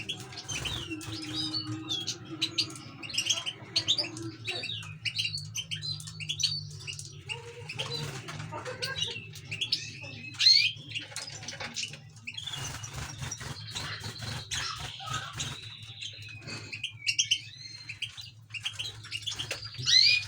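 Cage birds, canaries and goldfinches, chirping and twittering, with many short, quick calls overlapping throughout. A low steady hum runs underneath.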